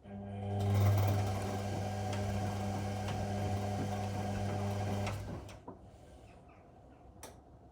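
Whirlpool Indiana 1400 washing machine running in its wash cycle: a steady mechanical hum that starts suddenly, holds for about five seconds and then stops, followed by a few faint clicks.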